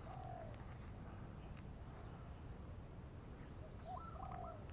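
A bird calling twice: a short whistled phrase just after the start and a longer one about four seconds later. A low steady rumble runs underneath.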